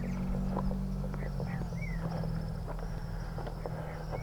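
Birds giving short chirps and insects trilling high and thin over a low steady hum, with scattered light clicks of footsteps on a path.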